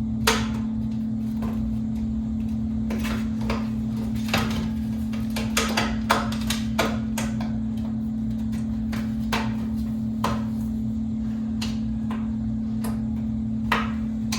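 Irregular clicks and knocks of plastic box-fan parts being handled and fitted together, over a steady low hum.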